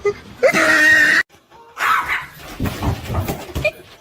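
A dog gives one loud drawn-out call lasting under a second, followed by scuffling and a few low thumps.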